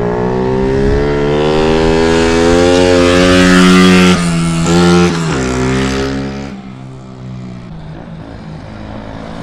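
A mini bike's small engine accelerating hard, its pitch rising for about four seconds, then dropping sharply as the throttle comes off, picking up briefly and fading away about six seconds in.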